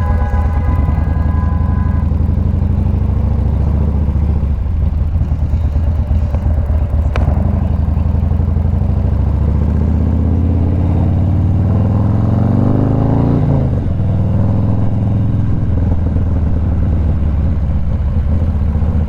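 Motorcycle engine running on the road, its pitch rising as it accelerates for a few seconds past the middle, then falling back suddenly as it shifts gear.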